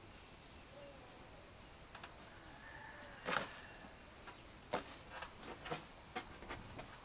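Steady high-pitched insect chirring, like crickets, with a few scattered short knocks and clicks; the loudest knock comes about three seconds in.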